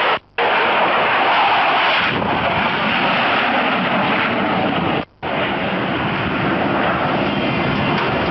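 Loud, steady rushing noise of a military aircraft's engines, cut off for a moment twice, just after the start and about five seconds in.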